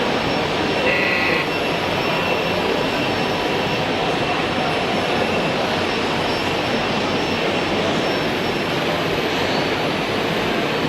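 Steady whirring hiss of running radio-controlled model machinery, with a few faint steady whines above it and a brief higher tone about a second in.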